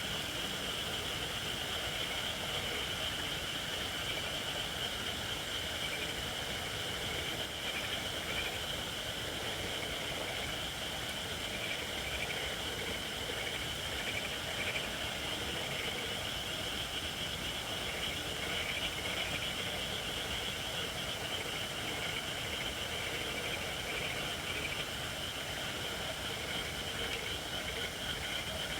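Wood fire of Japanese white oak (shirakashi) logs burning steadily, crackling, with a steady high hiss from moisture in the logs: the firewood is not yet dry enough.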